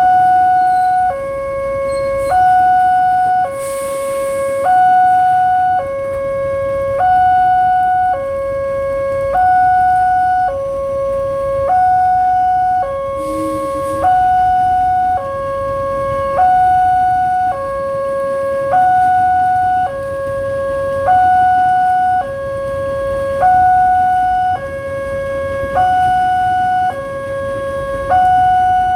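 Railway level crossing warning alarm sounding, an electronic two-tone signal that alternates evenly between a higher and a lower tone, each held for just over a second. It warns that a train is approaching.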